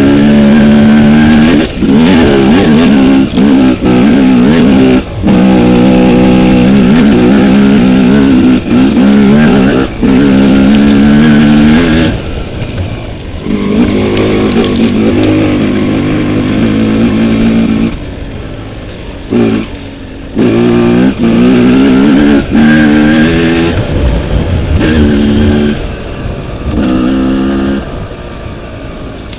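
Off-road dirt bike engine revving hard over rough trail, the throttle snapped shut and reopened again and again. Twice the engine drops to quieter, lower revs for a few seconds, about twelve seconds in and again past the middle.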